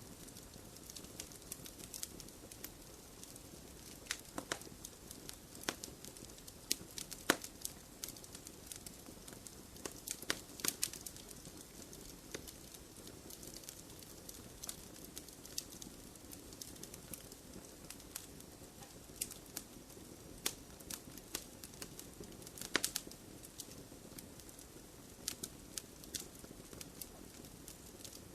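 Wood fire crackling in a fireplace: irregular sharp pops and snaps, a few of them louder, over a low steady rush of the flames.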